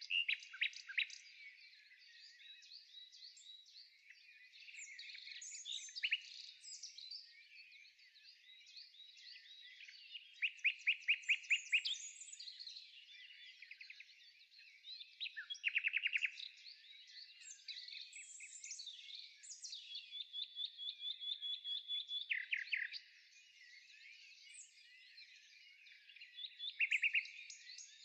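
A chorus of small birds singing and chirping together, with loud rapid trills every few seconds and one long even trill about twenty seconds in.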